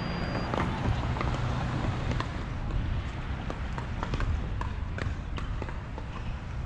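Footsteps and irregular sharp taps of people running in a ball game, over steady background noise.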